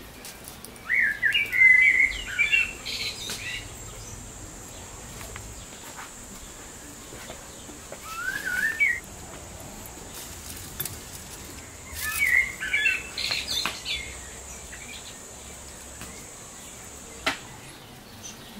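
A small songbird singing in three short bursts of quick chirping phrases, about a second in, around eight seconds and around twelve seconds, over a faint steady high-pitched whine. A sharp click sounds near the end.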